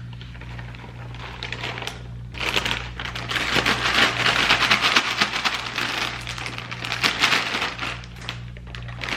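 Dry Rice Chex cereal being mixed to make puppy chow: a dense crackling rattle of many small pieces knocking together. It swells about two seconds in and eases near the end.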